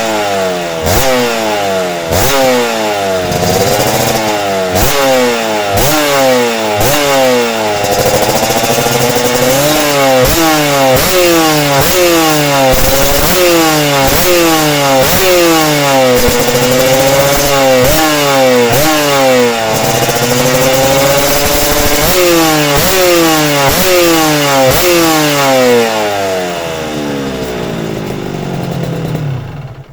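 Suzuki RGV250Γ two-stroke V-twin motorcycle engine revved repeatedly through its exhaust: quick blips at first, then longer rises and falls in engine speed. Near the end it drops back to a lower, steadier run and then cuts off.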